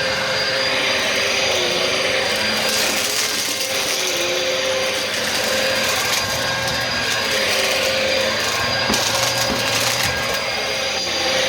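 Bissell vacuum cleaner running steadily, a continuous motor whine and airflow rush with the pitch dipping briefly now and then as the load changes.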